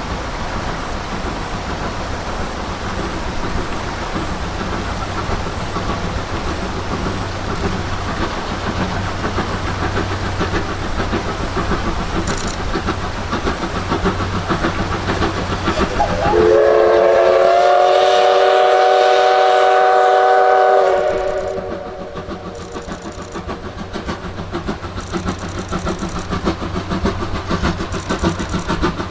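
Steam locomotive running with a steady rumble and clatter of wheels on rail, then one long blast on its steam whistle, lasting about four and a half seconds, several tones together with the pitch rising slightly as it opens. The whistle is the loudest thing heard; the running noise carries on after it.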